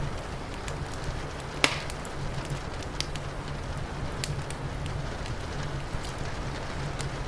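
Wood fire crackling, with scattered sharp snaps and one loud pop about a second and a half in, over a steady hiss of rain and a low rumble underneath.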